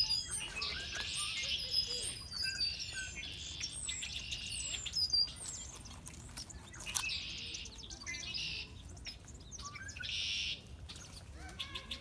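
Wild birds chirping and calling: a run of short, high, buzzy bursts about a second long, with thin whistled chirps between them. A single sharp click about seven seconds in.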